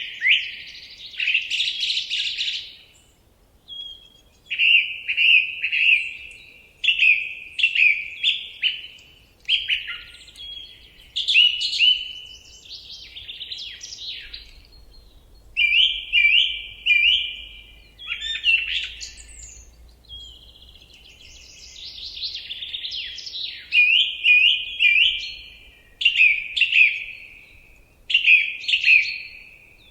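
A songbird singing: short phrases of quick, high chirps, many of them dropping in pitch, repeated every second or two with brief pauses between.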